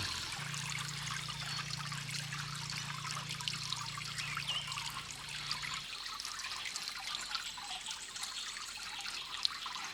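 Water trickling and splashing while a dog is being washed. A low steady hum runs underneath and stops about six seconds in.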